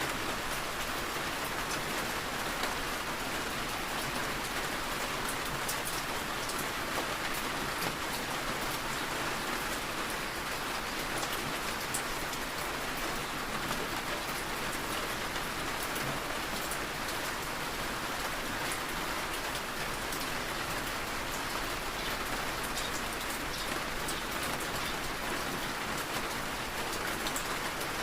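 Steady rain falling on a surface, a continuous even hiss with scattered small drop ticks.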